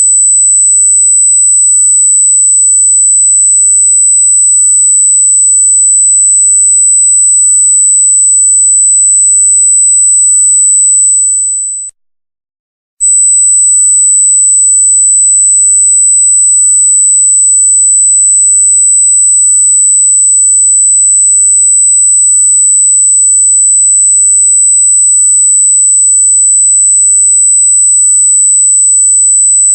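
Loud, piercing electronic tone held at one very high pitch. About eleven seconds in it fades away, is silent for about a second, then comes straight back at full strength.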